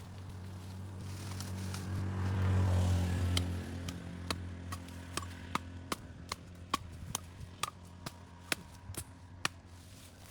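A motor vehicle passes by, its engine hum swelling to a peak about three seconds in and then fading. From about four seconds in comes a run of sharp, evenly spaced knocks, about two to three a second.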